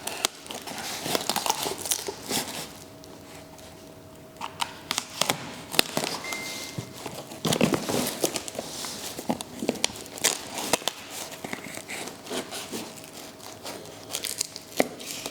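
Packaging being unwrapped by hand: irregular crinkling and rustling with some tearing and sharp clicks, easing off briefly about three seconds in.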